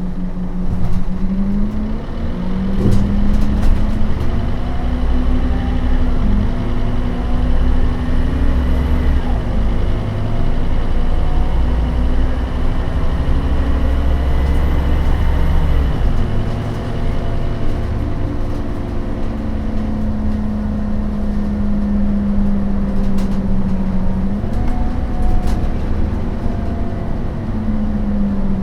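Scania DC9 five-cylinder turbodiesel of a Scania K270UB city bus with a ZF Ecomat automatic gearbox, pulling under load with a heavy rumble for about the first half. The load then drops away and the engine runs lighter, and its note rises again near the end.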